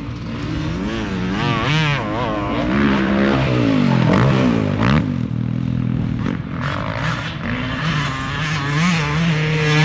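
Motocross dirt bike engine revving up and down as it is ridden hard around a track, the pitch rising and falling with each throttle blip and gear change. A second bike's engine is heard at a different pitch about the middle.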